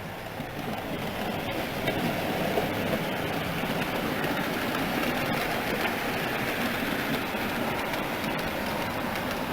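00 gauge model trains running on the layout's track: a steady motor hum and rolling wheels on rail, with a few faint clicks.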